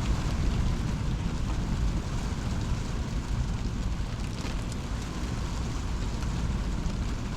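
Thunderstorm rain falling steadily, with wind rumbling on the microphone.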